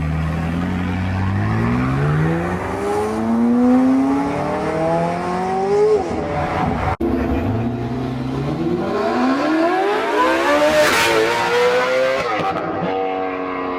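BMW M5 accelerating hard, its engine note climbing steadily for about six seconds before dropping off. A second climb in pitch follows, then the engine evens out and wavers near the end.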